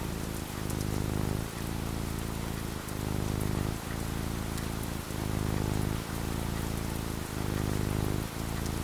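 Steady rain falling, over a low hum that dips briefly about once a second.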